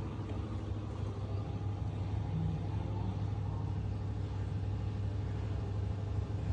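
A car engine running steadily at idle, a low even hum.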